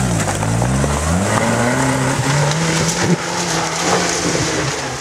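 Jeep Cherokee's engine pulling hard in second gear up a steep, rutted dirt slope, its note rising over the first second or so and then held steady under load.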